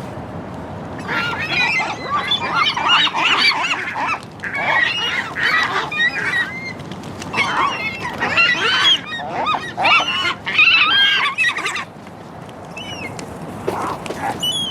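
Several gulls calling over one another in a loud, dense chorus of cries that breaks off about twelve seconds in. A few fainter calls follow near the end.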